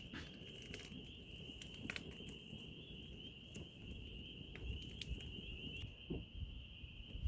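A chorus of frogs calling in a steady, high-pitched trill, with scattered sharp crackles and pops from a wood fire burning in a grill.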